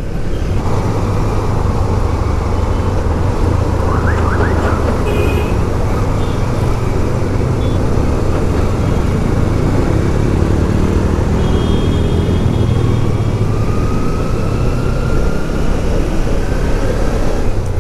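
Onboard sound of a Kawasaki Ninja 300 parallel-twin motorcycle riding in traffic: steady engine and wind noise, with a slow rising tone in the second half.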